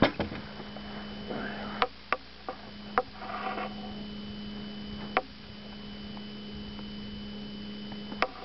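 Steady electric hum with a faint high whine, which stops for about a second around two seconds in and then resumes, with several sharp knocks and clicks scattered through it.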